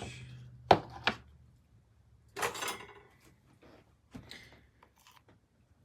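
A dish of chocolate pudding being handled on a counter: two sharp clicks or knocks about a second in, then a short scraping rustle and a few fainter knocks.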